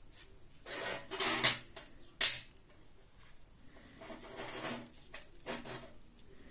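Hand-work noises on camping tripod parts: bursts of rubbing and scraping, with one sharp click a little over two seconds in.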